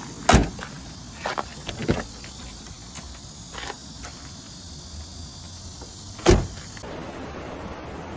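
Several sharp knocks and clunks over a steady low hum, the two loudest about a third of a second in and about six seconds in.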